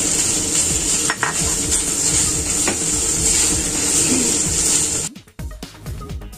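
Minced pork frying loudly in hot oil in an enamel pot while a spatula stirs it, with a couple of short knocks of the spatula against the pot. About five seconds in, the sizzling cuts off abruptly and background music takes over.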